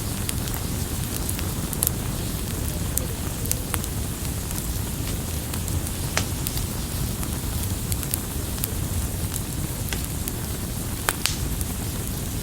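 Campfire burning with a steady low rush and scattered sharp crackles and pops, a few standing out clearly, one about six seconds in and another near the end.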